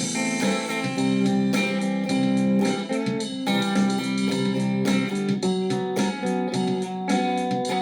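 Guitar playing an instrumental tune, plucked notes and chords ringing over one another at a steady pace, with no singing.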